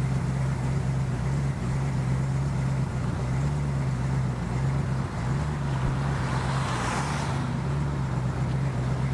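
An engine running steadily at idle: a low, even hum whose pitch wavers slightly.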